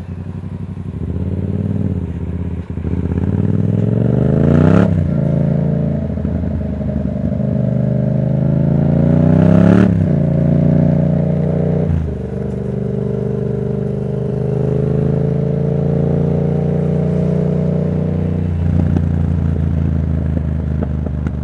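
Yamaha MT-07's 689 cc parallel-twin engine through a Black Widow aftermarket exhaust, accelerating with rising revs and shifting up twice, about five and ten seconds in. It then runs at a steady speed and eases off near the end.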